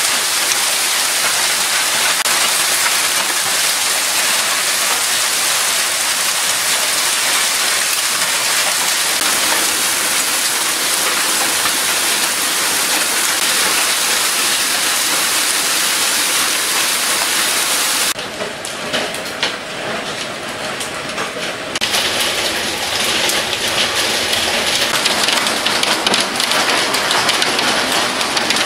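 Heavy rain pouring down in a violent thunderstorm, a dense steady hiss. About two-thirds of the way through it cuts abruptly to quieter rain, then a few seconds later comes back heavier.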